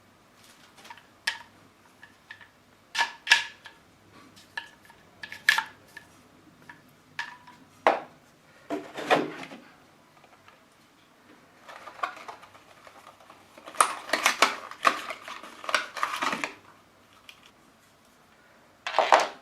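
Hard plastic parts of a cordless stick vacuum cleaner being handled: scattered clicks and knocks as pieces are picked up, fitted and set down, with short bursts of rustling and a busier run of knocks and rattles about two-thirds of the way through.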